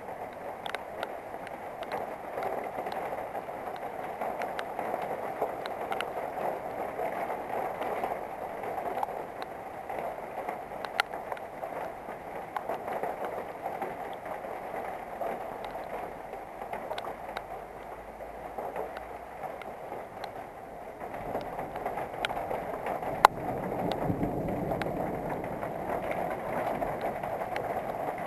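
Steady summer-thunderstorm rain hissing, with scattered sharp ticks of drops striking close by and one louder click about three-quarters through. A low rumble swells in the last several seconds.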